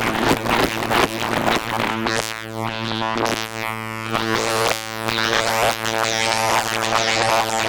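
Make Noise Eurorack modular synthesizer drone from slightly detuned oscillators modulating each other, with a bandpass filter output fed back into an oscillator's FM input. A steady low tone rich in harmonics, with uneven, rhythmic sweeps and flutters in the upper range as the oscillators drift in and out of phase.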